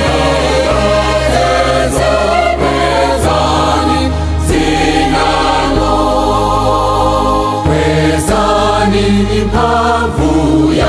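Music with a choir singing over a steady bass line, in the style of gospel music.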